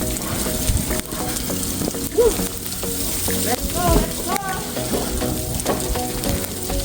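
Steady crackling hiss of a snowstorm on an outdoor street, the snow and wind hitting the microphone, with a low hum of traffic. A few short rising tones sound about four seconds in.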